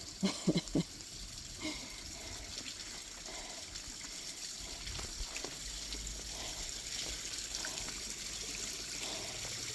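Small waterfall running with only a little flow: a steady trickle and splash of water.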